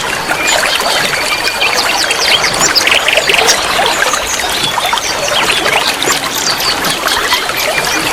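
Steady rush of running water with many small birds chirping over it in short, quick notes, and a brief buzzy trill about three seconds in.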